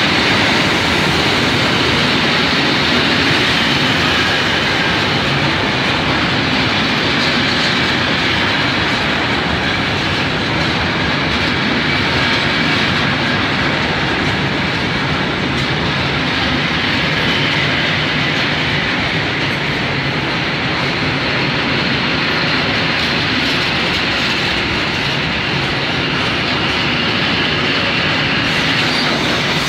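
Freight train of loaded Tadds covered hopper wagons rolling past at close range: a steady, loud rumble of steel wheels on rail with clacking over the rail joints.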